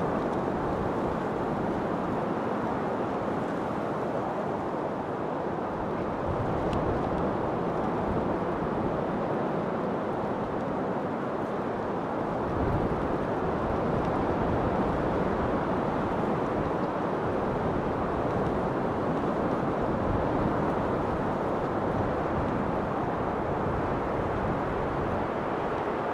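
Steady wind, a continuous even rush that barely rises or falls.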